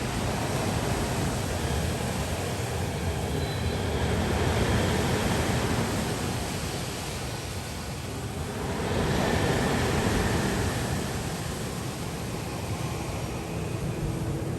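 Steady rushing wind noise with a low rumble, easing a little past the middle and then swelling again.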